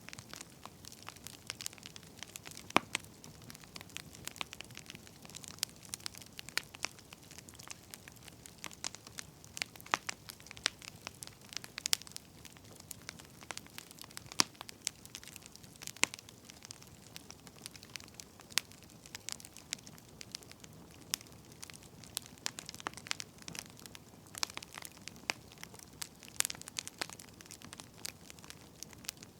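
Burning firewood crackling steadily, with irregular sharp pops over a soft hiss.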